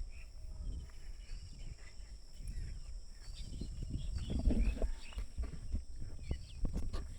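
Outdoor rural ambience during a walk: low rumble of wind and handling on the microphone, louder about two thirds of the way through, with scattered footstep-like clicks and short bird chirps.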